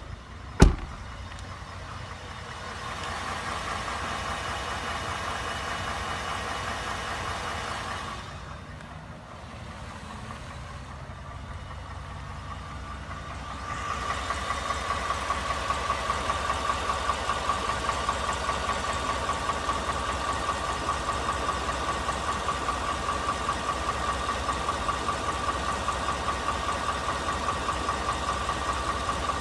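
2018 Ford F-150 5.0 L V8 engine idling with a rapid, even knocking, the 'typewriter noise' that its owner reports getting louder and louder. There is a single sharp click about half a second in, and the engine sound grows louder and steadier from about halfway through.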